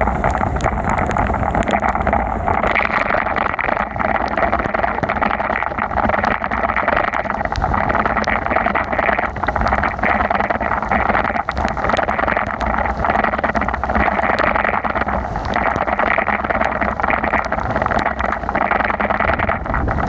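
Steady rush of wind and heavy rain on the microphone of a camera carried on a moving bicycle, with tyre spray on a wet road and many small sharp ticks.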